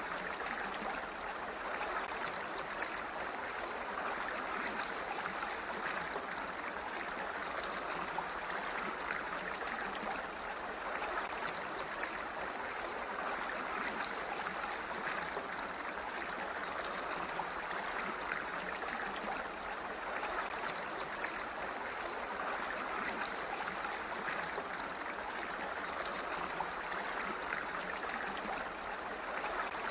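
Water flowing steadily, an even rushing noise with no change in level.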